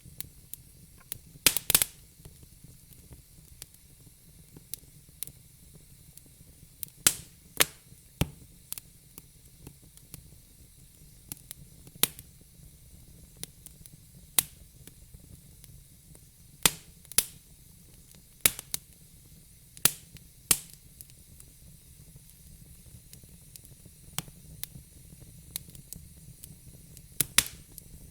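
Wood fire in a fire pit crackling: sharp, irregular pops and snaps of burning logs over a faint steady hiss.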